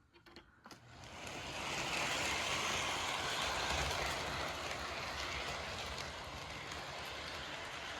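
Lionel C&O 0-6-0T model steam locomotive, a model with no sound effects, starting off and running along the track pulling freight cars: after a few light clicks, the steady running noise of its motor and wheels builds up over about a second and holds.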